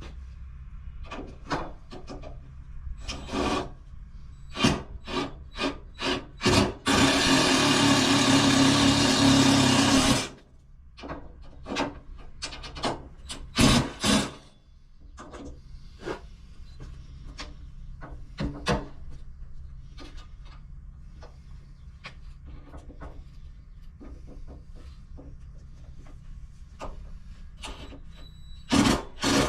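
Hand tool rubbing and scraping in a series of short strokes, with one unbroken stretch of about three seconds near the middle and a few more strokes near the end.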